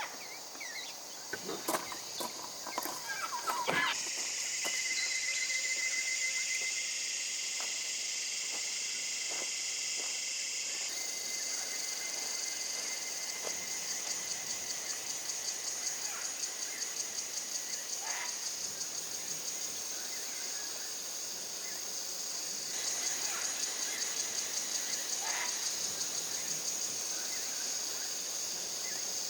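A chorus of insects in the bush, a steady, high-pitched, rapidly pulsing chirring. It starts abruptly about four seconds in, after a few scattered clicks and knocks.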